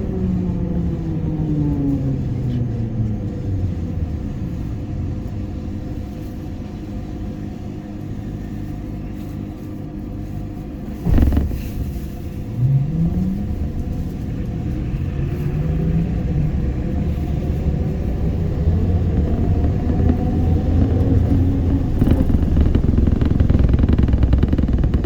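ZiU-682G trolleybus traction motor whining, its pitch falling as the trolleybus slows. A sharp knock comes about eleven seconds in, then the whine rises again as it pulls away and speeds up, growing louder toward the end.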